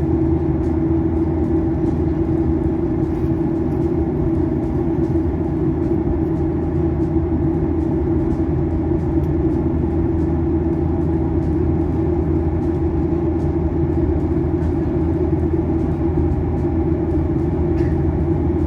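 Steady cabin drone of a jet airliner in flight, heard from inside the cabin: engine and airflow noise with a constant low hum and rumble.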